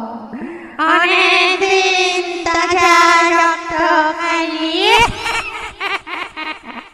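An eerie, high, voice-like wail held on one wavering note, with a quick tremble in it. It slides upward about five seconds in, then breaks into short choppy notes near the end.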